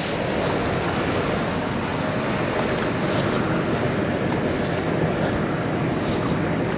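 Steady rumbling noise of a heavy diesel truck running, mixed with wind on the microphone.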